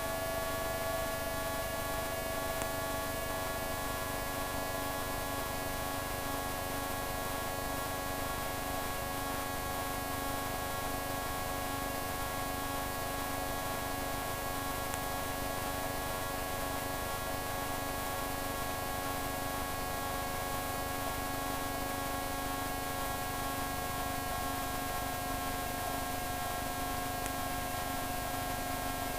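Steady in-flight drone of a microlight's engine heard through the intercom audio feed: several steady tones over a hiss, a few of them shifting slightly in pitch near the end.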